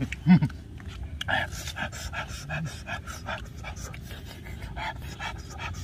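Close-up eating sounds: people chewing and smacking their lips in quick, irregular smacks while eating grilled fish with their hands.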